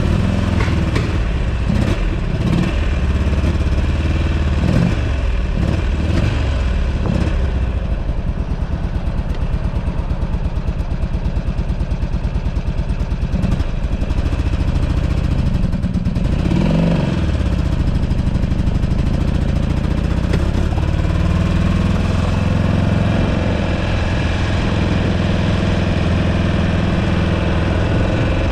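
2008 Buell Ulysses XB12XT's air-cooled V-twin running while riding, with the revs changing in the first few seconds and rising and falling again about halfway through. Wind noise on the microphone underneath.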